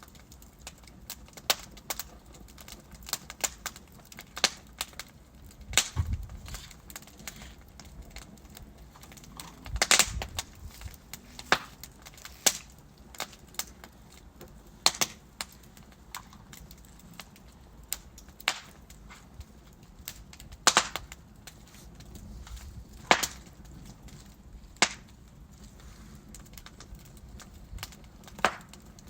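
Wood fire of burning logs crackling, with irregular sharp pops and snaps a few times a second over a faint steady hiss; louder pops near 6, 10 and 21 seconds in.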